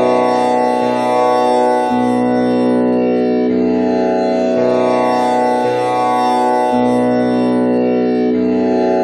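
Tanpura drone in B scale, with the first string tuned to komal (flat) Ni instead of Pa. Its four strings are plucked in turn about a second apart, and the cycle repeats about every five seconds under one continuous ringing drone.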